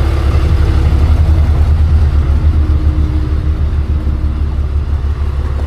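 Tow truck's engine idling, a steady low rumble.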